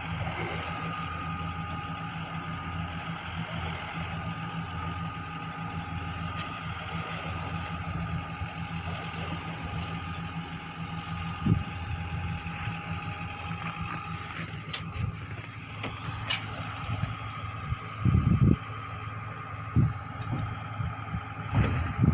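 Tractor engine running steadily while it pulls a truck stuck in a snowbank, with the truck's engine also running and a steady high whine. A few short low thumps near the end.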